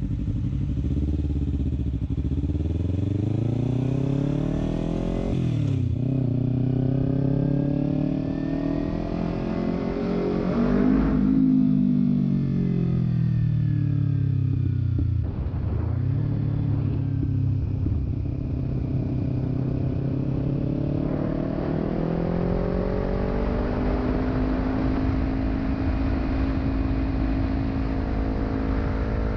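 Kawasaki Ninja 300's parallel-twin engine through a Delkevic aftermarket exhaust, accelerating hard with a rising pitch. The pitch drops sharply twice as it shifts up through the gears, then settles to a steady cruise, with a constant low rumble of wind underneath.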